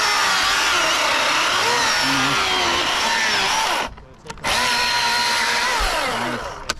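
Chainsaw running under load, cutting wood in two runs with a short break about four seconds in. Its pitch shifts as it bites, then falls away near the end as the throttle is let off.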